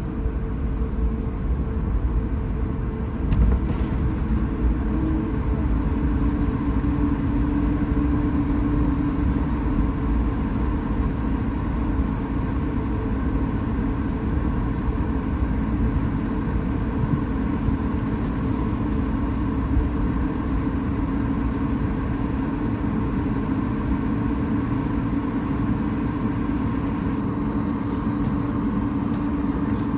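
Cabin noise inside an Airbus A220-300: a steady rumble from its Pratt & Whitney PW1500G geared turbofan engines and airflow, with a few constant hum tones over it.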